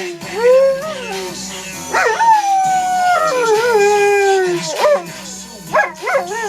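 Pit bull howling along to a song: a short howl, then a long howl sliding down in pitch, then a few quick yelping howls near the end.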